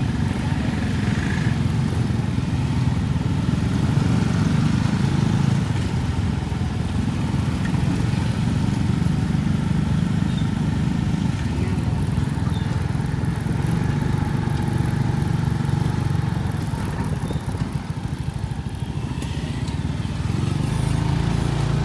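Small motorcycle engine running steadily under a moving ride, with road and traffic noise around it, heard from on board.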